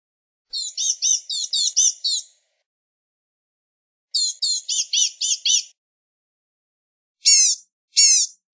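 Blue-gray gnatcatcher calling: two quick runs of six or seven thin, high, buzzy notes, then two single louder down-slurred notes near the end.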